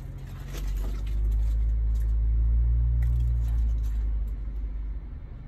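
Jeep Wrangler engine running under light throttle, a low steady hum that swells about a second in and eases off near the end.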